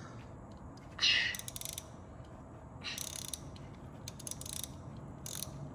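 Ratchet wrench clicking in short bursts, about four times, as a nut welded onto a broken bolt stub is turned to back the bolt out of the cylinder head. A brief louder sound about a second in.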